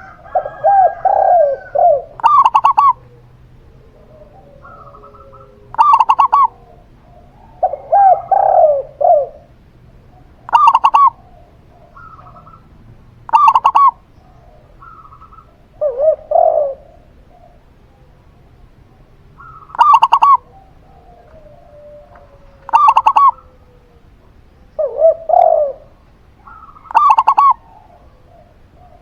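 A zebra dove and a spotted dove cooing in turn. The zebra dove gives short, bright coos every few seconds, and the spotted dove answers with lower, longer phrases of several coos, four times.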